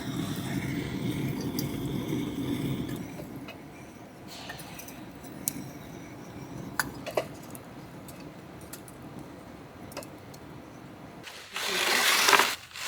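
Scattered light clinks and knocks of things being handled and set down, with a louder noisy rustle lasting about a second near the end.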